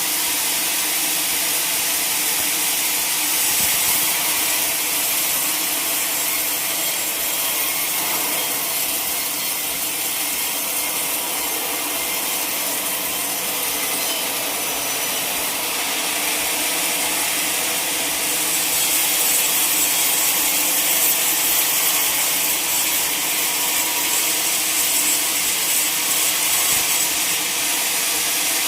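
Sawmill saw running through a log: a steady, unbroken sawing noise that grows a little louder about two-thirds of the way through.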